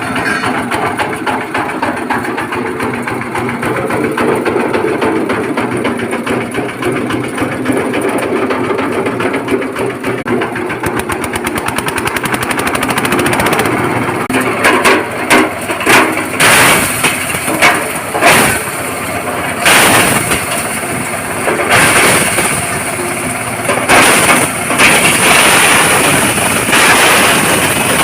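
Small stone and gravel pulverizing machine running, with a steady motor noise and a fast rattle. From about halfway there are louder, irregular bursts of crunching and clattering as stone is crushed.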